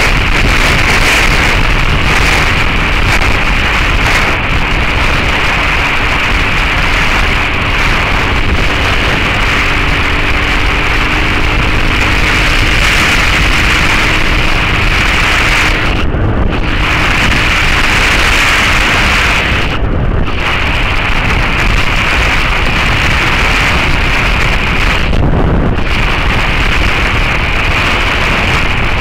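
Loud wind noise buffeting the action camera's microphone on a moving motorcycle, with the Suzuki SV650S's V-twin engine faintly audible underneath. The rush of wind briefly drops out three times in the second half.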